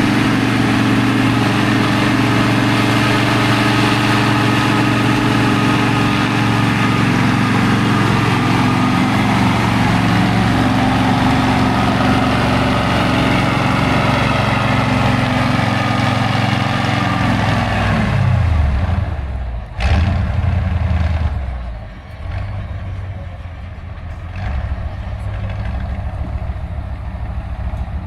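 Heavy off-road trial truck's diesel engine running hard at steady high revs. About two thirds of the way through, the revs fall away to a lower idle, with a brief sharp noise as they drop.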